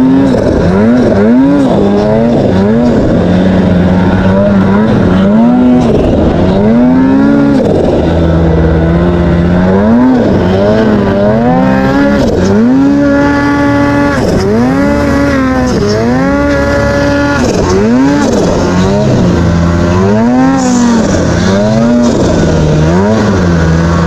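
Snowmobile engine revving up and down over and over, its pitch rising and falling every second or two as the sled is worked through deep snow.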